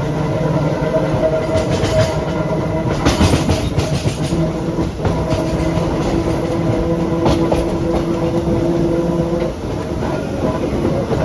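Vintage BMT BU gate car subway train running on the rails, heard from on board. A steady hum and rumble is broken by a few sharp clicks of the wheels over rail joints. The hum eases a little near the end.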